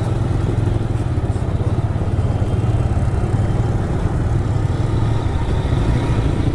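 TVS Raider 125's single-cylinder engine running steadily as the motorcycle is ridden.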